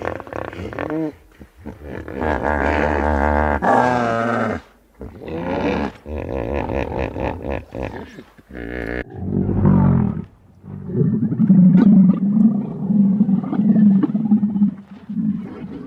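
A series of animal calls: several pitched cries with a wavering pitch in the first half, then a long, low, pulsing rumbling call in the second half.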